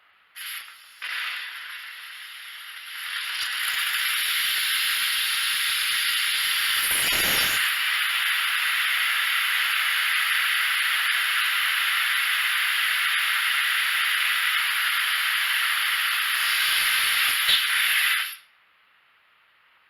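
Compressed air blowing out of an air compressor's water drain, hissing loudly as the condensed water is purged. It builds over the first few seconds, runs steadily with a brief surge about seven seconds in, then cuts off suddenly near the end as the valve is closed.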